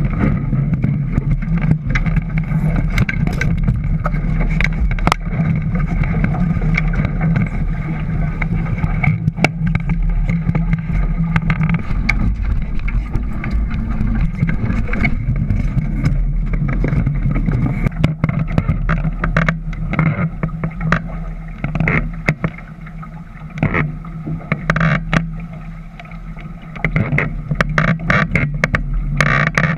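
A boat under way: a steady engine hum with rushing wind and water noise and frequent short crackles. The sound dips quieter for a few seconds past the middle.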